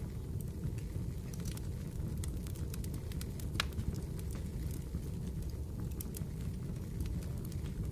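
Fireplace crackling: scattered sharp snaps and pops over a steady low rumble of the fire.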